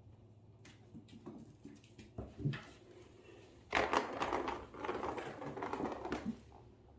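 Kittens playing with a noisy toy: scattered clicks and knocks, then about two and a half seconds of dense clattering about halfway through.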